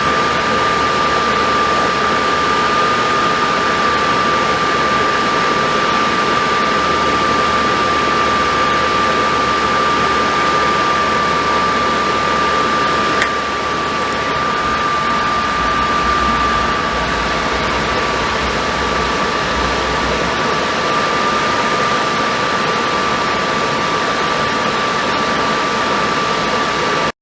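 Suburban SF-30 RV furnace running with its blower fan on, a loud steady rush of air with a steady high whine, and a single click about halfway through.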